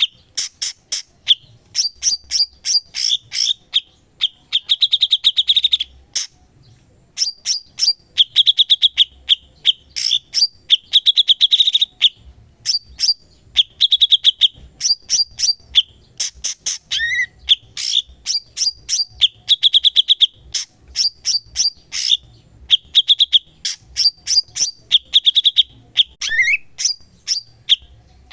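Cucak cungkok singing continuously in full song: phrases of fast rattling trills alternate with runs of sharp, high chirps, and a rising slurred note is heard twice.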